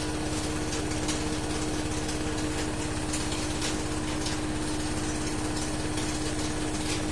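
Siemens front-loading washing machine in its main spin, a steady hum with irregular light rattling or scraping on top. The noise comes only in the final spin: an abnormal sound in a machine that runs quietly otherwise, though the lint filter has been cleaned and the pump impeller turns freely.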